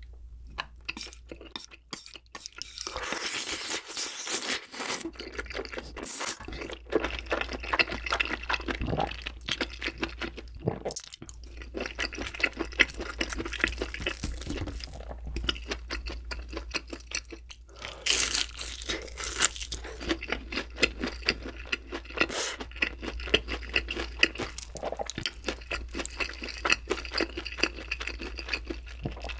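Close-miked eating sounds, from about three seconds in: wet chewing and slurping of braised chicken and wide glass noodles in soy sauce, mixed with crunchy bites of a fried pork cutlet, as a rapid run of clicks and crackles with brief pauses.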